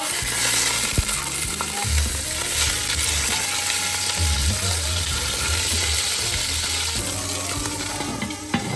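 Boerewors sausage sizzling in a frying pan: a loud, steady hiss, with a few sharp knocks from the pan or a utensil.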